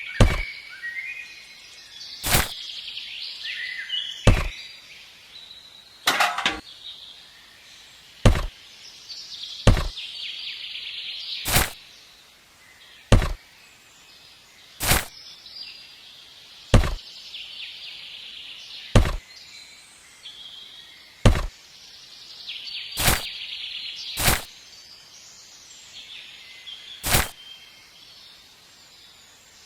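Sharp knocks, one every one and a half to two seconds, with birds chirping steadily in the background.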